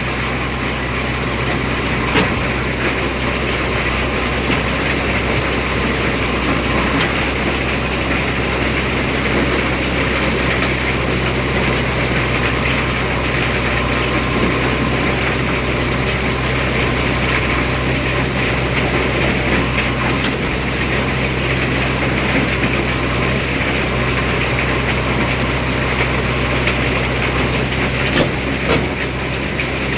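Heavy diesel engine running steadily at an even speed, with a few short knocks, one about two seconds in and two near the end.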